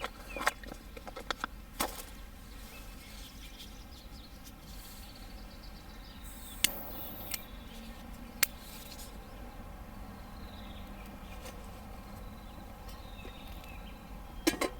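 Small wood fire crackling in an ultralight wire-frame fire pit, with scattered sharp pops: a cluster in the first couple of seconds, two single pops in the middle and a few near the end. Faint bird chirps come in now and then.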